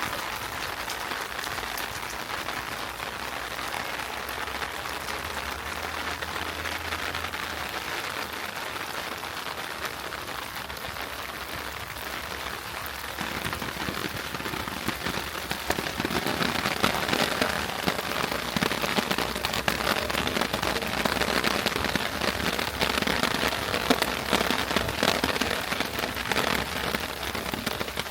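Heavy rain falling, a dense patter of drops that grows louder and sharper about halfway through.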